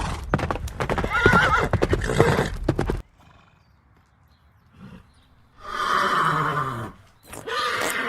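Horse neighing, with hooves clip-clopping during the first three seconds. The sound cuts off abruptly about three seconds in, and a second neigh comes at about six seconds, falling in pitch.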